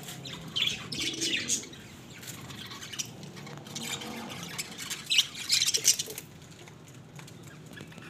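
Small birds chirping and squawking in quick high-pitched bursts, about a second in and again around five to six seconds in.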